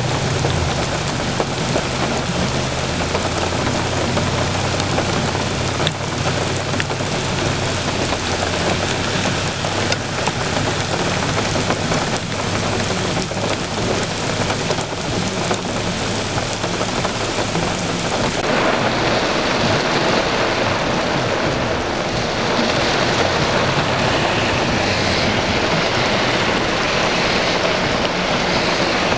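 Heavy thunderstorm rain pouring steadily onto flooded ground and pavement, a loud even hiss. A low steady hum runs under it until about two-thirds of the way through, where the sound changes abruptly.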